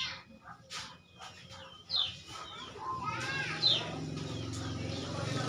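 Sooty-headed bulbul calling: short sharp notes that fall from a high pitch, a couple of seconds apart, mixed with lower arched notes. A low motor-like hum comes in about three seconds in and grows louder.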